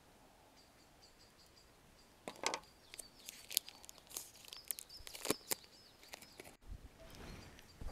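Small birds chirping in the background. From a little over two seconds in, a run of sharp clicks and clatters, as of things being handled, lasts for about four seconds.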